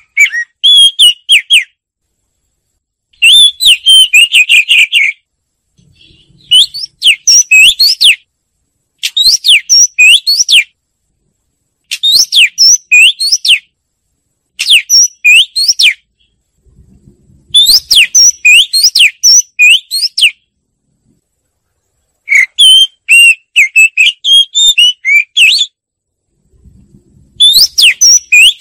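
Oriental magpie-robin singing loudly: about nine phrases of rapid whistled notes with quick rising sweeps, each phrase lasting a second or two, with short pauses between them.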